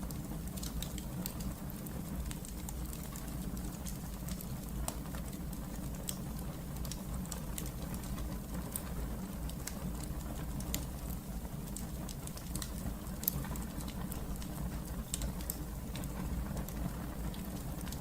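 Wood fire burning in a fireplace, crackling with frequent small, irregular pops over a low steady rumble of the flames.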